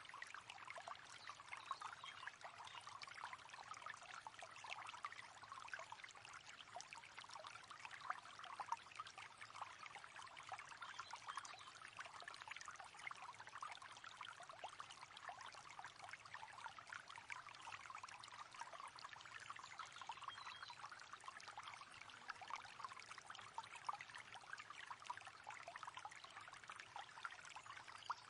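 Faint, steady river water flowing and trickling, an even rushing babble with no pauses.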